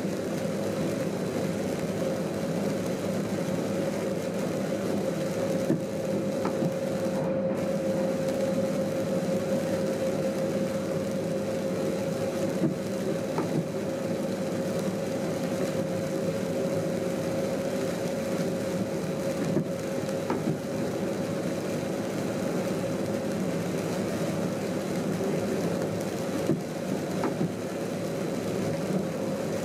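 Steady running sound inside a train driver's cab: a constant hum with a steady mid-pitched tone over a low rumble, with a few faint ticks scattered through it.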